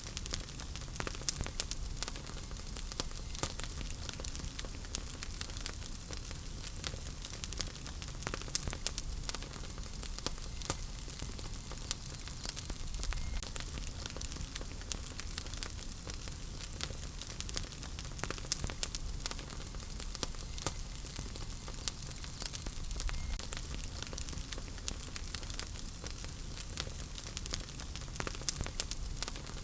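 Wood fire crackling in a fireplace: a steady low rumble and hiss with frequent sharp pops and snaps scattered irregularly throughout.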